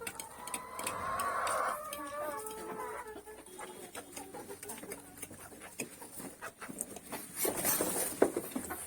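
Several chickens clucking, loudest and densest in the first two seconds, then scattered calls.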